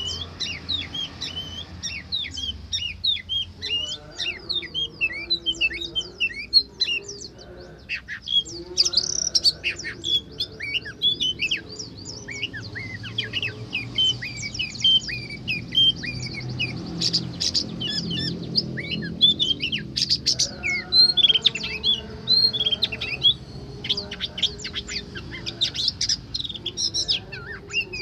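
Oriental magpie-robin (kacer) singing: a rapid, unbroken run of short, varied chirps and whistles, some notes sharper and louder in the middle stretch.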